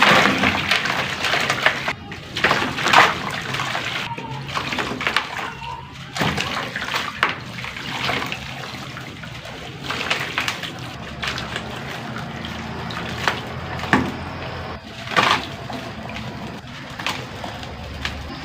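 Chunks of sand-cement crumbling in water: irregular crunches and splashes, the loudest about 3 and 15 seconds in.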